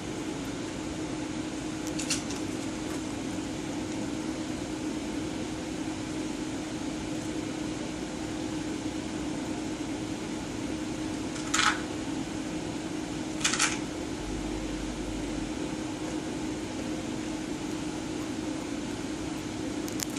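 Steady mechanical hum holding one low tone, like a running fan or air conditioner, with two brief rustling scratches a little past the middle.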